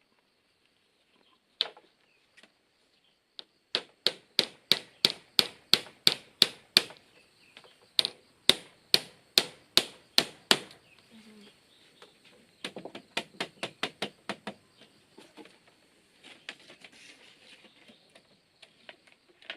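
A hand tool striking bamboo in a steady series of sharp blows, about three a second, with a short pause partway through. Later comes a quicker, lighter run of strikes.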